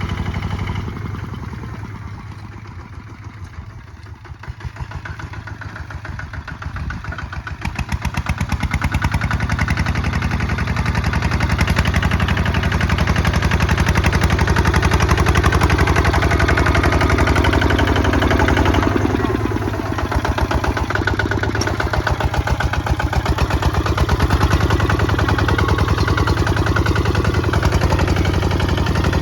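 Single-cylinder diesel engine of a Kubota ZT155 DI walking tractor running with a rapid, even exhaust beat. It grows quieter for the first few seconds, then rises again and stays steady and loud, apart from a brief dip about two-thirds of the way through.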